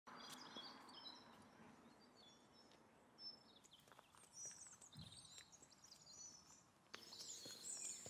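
Faint birdsong: small birds chirping and twittering in short, high, overlapping calls.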